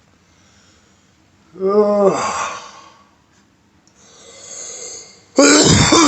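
A man's wordless groans and breaths, as if waking and stirring. There is a groan that falls in pitch about a second and a half in, a breathy exhale around four seconds, and a louder, sudden strained vocal sound near the end.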